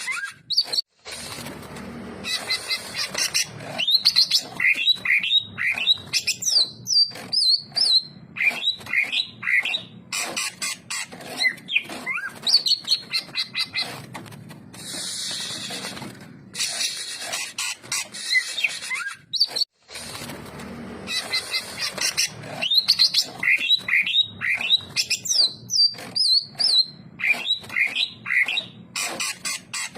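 Greater green leafbird (cucak ijo) singing almost without pause: fast runs of high whistled notes and chattering phrases, with a few brief breaks.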